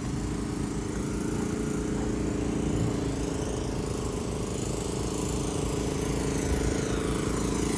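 An engine running steadily at an even speed, with a low rumble under a steady hum.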